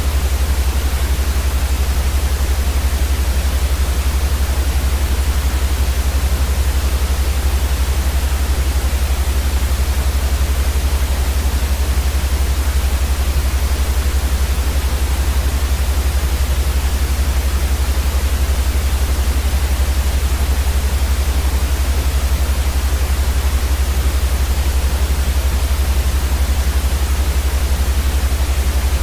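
Steady white-noise sleep sound: an even, unbroken hiss over a strong deep rumble.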